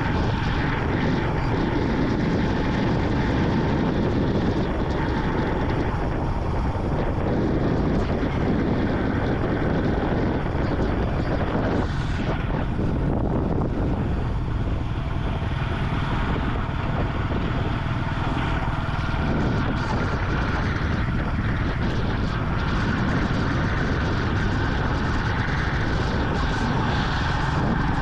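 Vintage Yamaha motorcycle running steadily while riding, its engine blended with a steady rush of wind and road noise.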